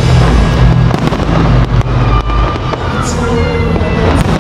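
Aerial fireworks bursting: deep booms with sharp bangs and crackle, the low rumble heaviest in the first two and a half seconds, then easing.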